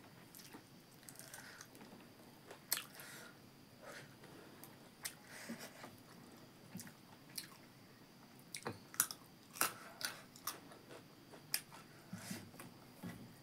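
A person chewing mouthfuls of rice and buffalo meat with radish, heard close up: irregular soft crunches and wet mouth clicks, a few of them louder.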